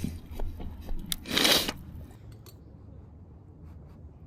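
A person eating hot stew from a small pot: sharp clicks of utensils against the dish and a short breathy noise, such as a slurp or a blow to cool the food, about a second and a half in, then faint scattered ticks.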